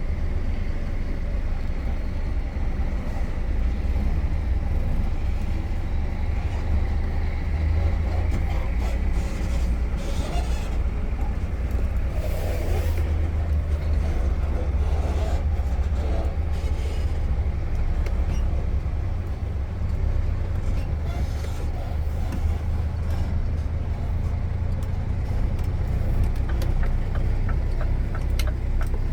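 Truck's diesel engine running steadily under way, a deep drone heard from the driver's cab. A brief hiss comes about twelve seconds in, and a regular ticking starts near the end.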